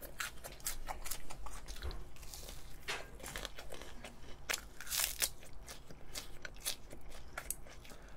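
Close-miked eating: crisp crunching bites and chewing of raw garlic chives, a rapid, irregular run of sharp crunches.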